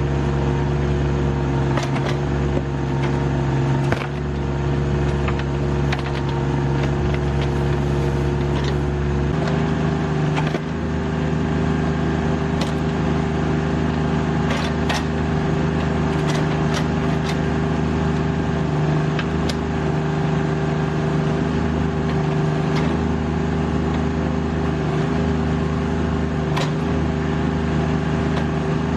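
Rural King RK25 sub-compact tractor's diesel engine running steadily while it powers the backhoe digging out a stump; its note shifts a little about nine seconds in. Scattered short knocks and clicks sound over the engine.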